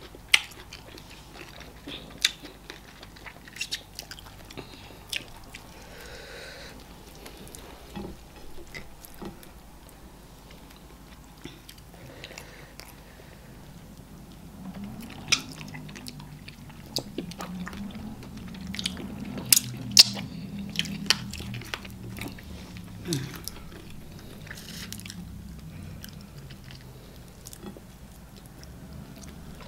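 Close-miked eating sounds of people eating garri fufu (eba) and okra soup with assorted meat by hand: wet mouth clicks, lip smacks and chewing. A low hum joins in from about the middle for several seconds.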